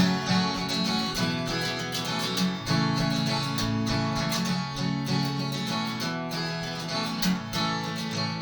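Instrumental break of a country-style song: strummed and picked acoustic guitar with steady rhythmic strokes and no singing.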